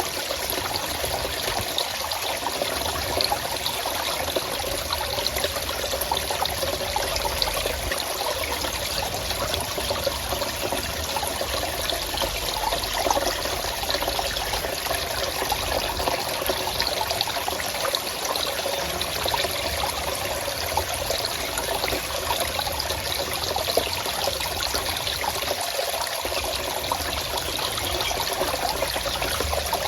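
A forest stream running steadily, water trickling and splashing over rocks.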